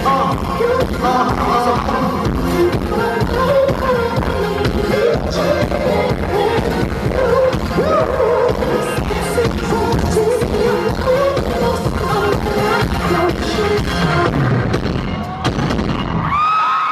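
Korean pop song playing loud with singing over a heavy steady beat; near the end the music stops and a few high held cries ring out.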